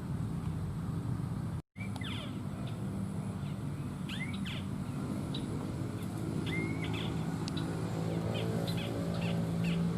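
A bird calling repeatedly in short, upward-curving chirps over a steady low rumble. The sound breaks off completely for a moment just under two seconds in.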